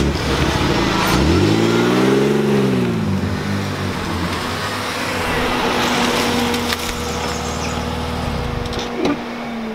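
Car engine revving up and dropping back once, about a second in, then running at a steady pitch.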